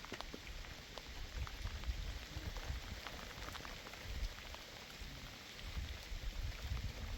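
Rain falling, with many scattered drops ticking close by over an even hiss, and a low rumble underneath.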